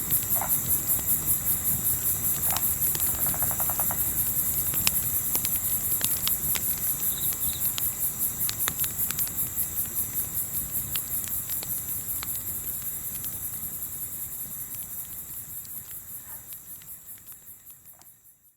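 Crickets chirping in steady rapid pulses, with scattered sharp crackles from a campfire and a low rumble of wind. It all fades out over the last several seconds.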